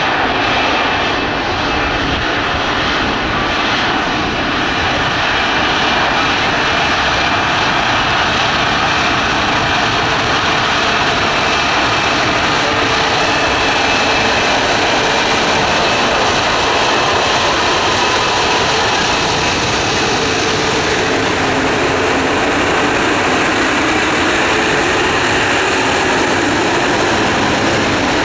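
Bombardier CS300's Pratt & Whitney geared turbofan engines running at taxi power: a steady rush with a faint high whine over it.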